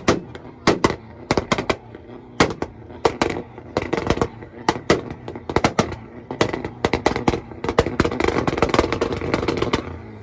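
Volkswagen's engine held on a two-step launch-control rev limiter, the exhaust firing rapid, irregular sharp pops and bangs over the running engine. The cracking comes thicker and faster in the second half and stops just before the end.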